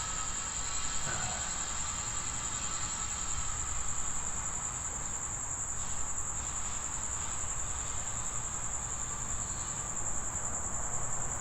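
Crickets trilling in a steady, high-pitched, unbroken chorus over a low background rumble.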